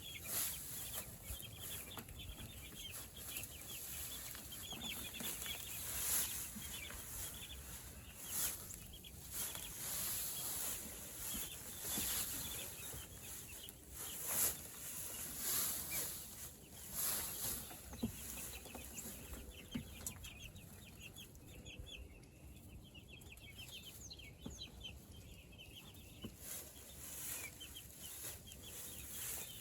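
A flock of meat chickens (broilers) calling, with many short high calls overlapping, and a few knocks and rustles among them. The calls thin out a little past the middle.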